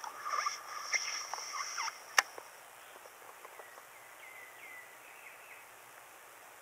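Rapid, harsh chattering calls of a bird in quick bursts for about two seconds, then one sharp click, followed by a few faint thin chirps that fall in pitch.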